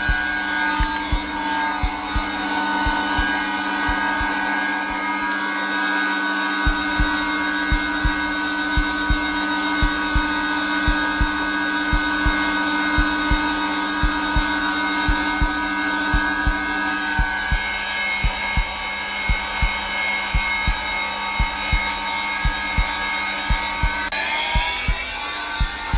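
Zelmer vacuum cleaner motor running steadily at its lowest setting, with a recorded heartbeat thumping in a regular low beat underneath. Near the end the vacuum's pitch briefly rises.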